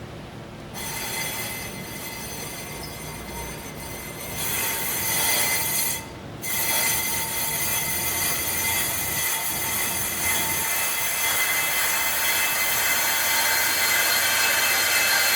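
High metallic squeal from a 2018 Range Rover Velar's brake disc, a cluster of steady high tones that starts just under a second in, drops out briefly about six seconds in, then resumes and grows slightly louder.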